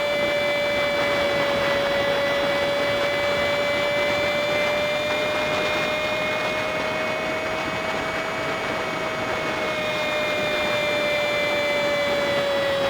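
Honda Super Cub 50's single-cylinder four-stroke engine running at a steady cruise, mixed with wind and road noise. The footage is sped up fivefold, so it comes out as a steady high whine that sags slightly in pitch near the end.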